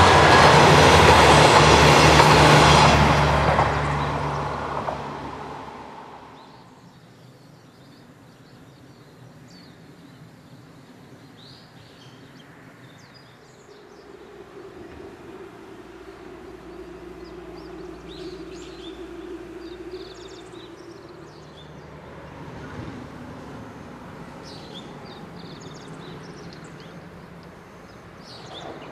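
Diesel railcar train passing close by, loud for the first few seconds and fading away by about six seconds in. Then quiet open-air background with scattered short, high chirps.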